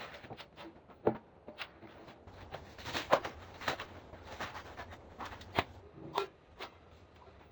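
A dozen or so irregular light knocks and clicks, spread unevenly, over a faint low rumble.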